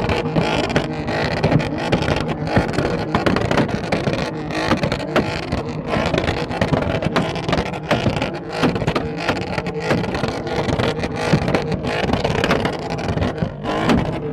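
A car engine being revved hard, with its exhaust firing a rapid, continuous string of pops and bangs.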